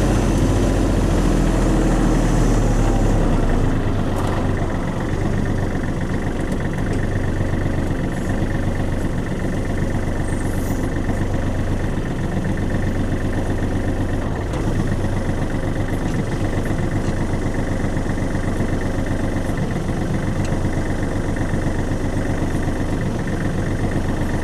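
Kubota tractor-backhoe engine running steadily while the backhoe is worked with log tongs to load logs. It is a bit louder for the first four seconds or so, then settles to an even hum.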